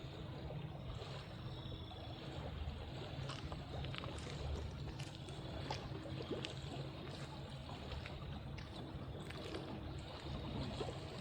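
Shallow, low river water running and trickling over rocks, with a steady low rumble underneath and scattered small ticks.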